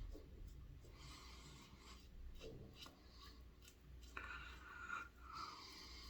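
Double-edge safety razor (a Gillette Red Tip with a Kai blade) scraping through lathered stubble in a series of short, faint strokes, shaving across the grain, with a longer stroke about four seconds in.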